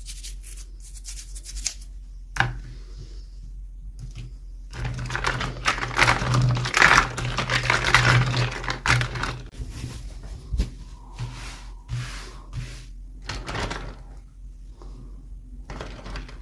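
Plastic toy packaging being handled and opened: scattered sharp clicks and taps, with a few seconds of dense crinkling and rustling in the middle.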